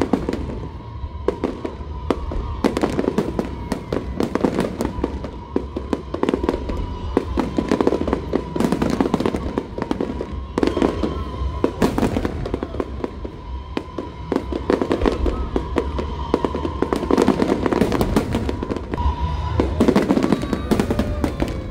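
Aerial firework shells bursting overhead in quick succession, many sharp bangs and crackles over a low rumble, with music playing underneath.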